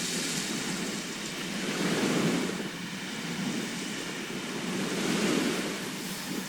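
Sea surf: waves washing in, swelling twice, about two seconds in and again about five seconds in.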